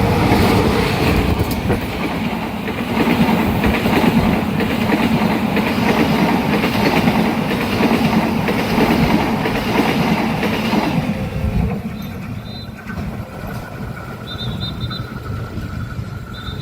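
Train passing at speed over a level crossing, wheels clattering on the rails; the noise drops away about eleven seconds in as the train goes by.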